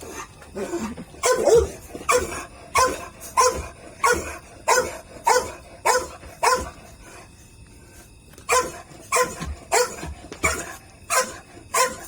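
Small Pomeranian dog barking in a steady series of sharp, high barks, about one and a half a second, with a short pause a little past the middle.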